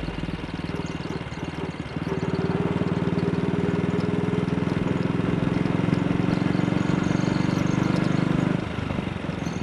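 AJS Model 8 motorcycle's single-cylinder engine running on the move. About two seconds in the throttle opens and it pulls steadily under load, then the throttle closes near the end and the engine note drops back.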